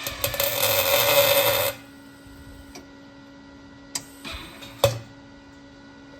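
MIG welder arc crackling and buzzing while a tack weld is laid on a muffler's broken seam, cutting off suddenly about two seconds in. A second short tack with sharp clicks comes near five seconds in.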